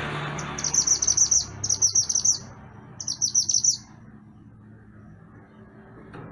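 Mantenan gunung songbird singing three quick phrases of rapid, high chirping notes in the first four seconds, then falling quiet.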